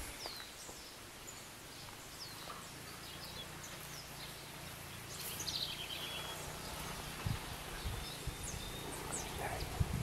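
Birds chirping in a garden: many short, high, falling chirps and a brief trill scattered over a steady background hiss, with a few low bumps near the end.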